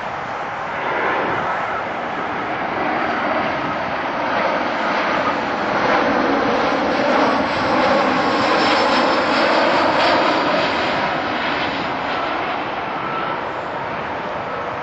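Jet airliner's engines passing overhead, a rushing roar with a faint whine that builds to a peak about halfway through and then eases off.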